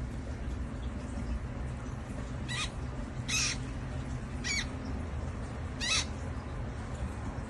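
Baby bird chirping: four short, high calls spaced about a second apart, over a steady low hum.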